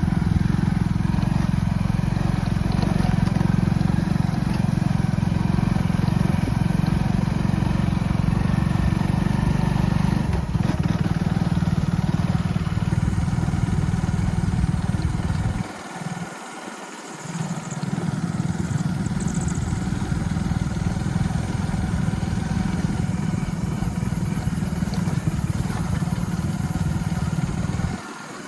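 Motorcycle engine running with a steady low rumble, which drops away for about two seconds around the middle and falls off near the end.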